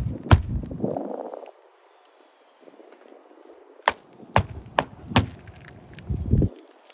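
Sharp knocks and dull thuds: one crack just after the start, then a quick run of four about half a second apart, with low rumbling handling noise in the first second and again near the end.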